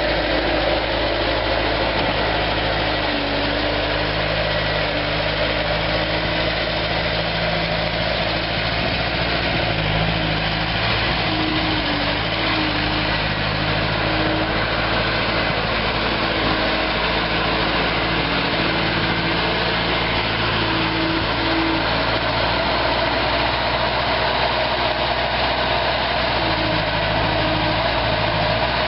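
Turbocharged diesel engine of a Bobcat A300 skid steer running steadily at idle.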